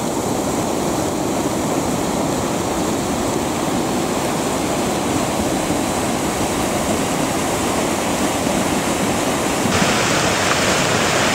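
Rain-triggered volcanic lahar, a flood of water, sand and boulders, rushing down a river channel: a steady deep roar of churning flow. It gains a sharper hiss near the end.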